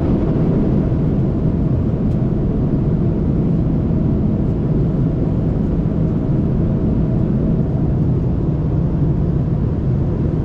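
Steady drone of an airliner cabin in flight: even engine and air noise, strongest in the low end, with a faint steady hum and no change throughout.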